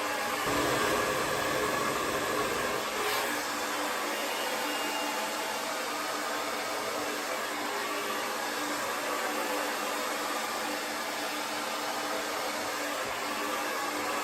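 Conair Testarossa 1875-watt AC-motor hair dryer running, a steady rushing of blown air with a low motor hum, a little louder in the first few seconds.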